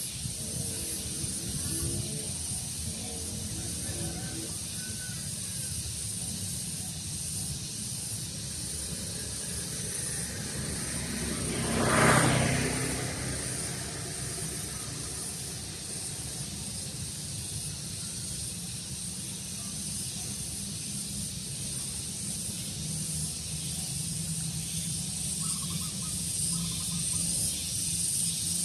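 Daytime outdoor ambience: a steady high hiss over a low rumble. About twelve seconds in, one louder swell rises and fades over a few seconds.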